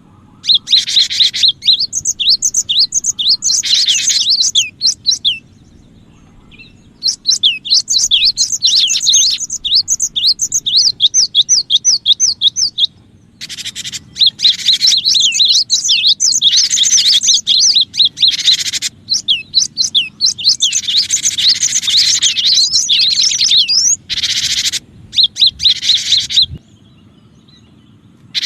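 Cinereous tit (gelatik batu) giving rapid, loud chattering chirps in bouts of a few seconds, broken by short pauses, over a faint steady low hum.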